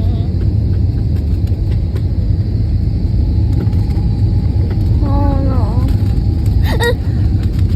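Steady low rumble of a moving vehicle heard from inside, with a short voice about five seconds in and a brief high-pitched call near the end.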